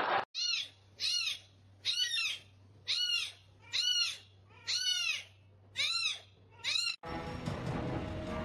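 A high-pitched animal call repeated seven times, about once a second, each call rising then falling in pitch, cut off suddenly about 7 seconds in by a different, noisier sound.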